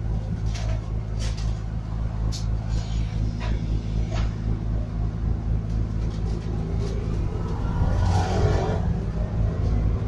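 Scania N280UD double-decker bus's gas engine running on the move, heard from inside the bus, with scattered rattles and clicks from the body. It grows louder about eight seconds in.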